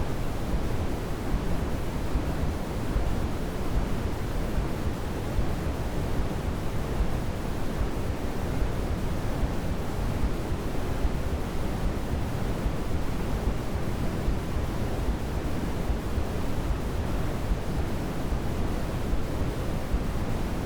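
Steady, unchanging sleep-aid noise, a constant hiss weighted toward the low end and fading toward the top, close to pink noise.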